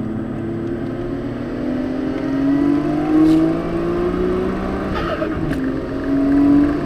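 Nissan Skyline's engine heard from inside the cabin, accelerating with its pitch rising steadily, then dropping at a gear change about five seconds in before climbing again.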